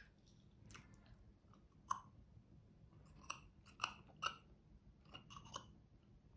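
Faint chewing with a series of short wet mouth clicks and smacks, several of them close together in the second half.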